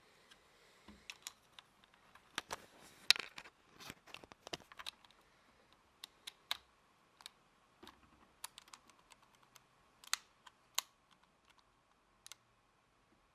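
Lego plastic parts clicking and rattling in sharp, irregular clicks. They come in a dense cluster in the first few seconds, then as sparser single clicks.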